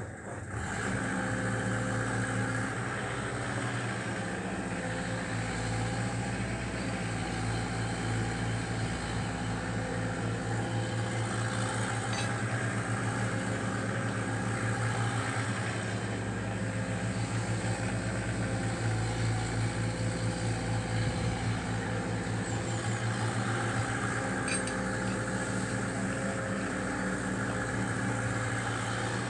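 Diesel engine of a Caterpillar 305D mini excavator running at a steady speed, with two brief clicks about twelve and twenty-four seconds in.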